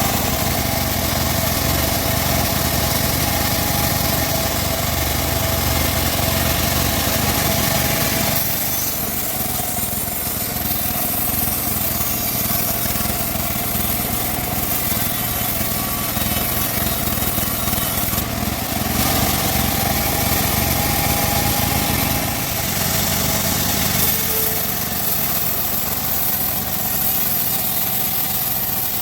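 Band saw running continuously while cutting wood, a steady motor-like drone. Its tone shifts about eight seconds in, and again at around nineteen and twenty-three seconds.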